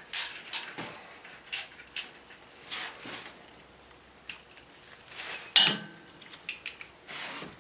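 Hand tools clinking and knocking against metal as tight 10 mm bolts on the oil pickup tube supports are worked loose, in irregular sharp clicks with a couple of short scraping rasps.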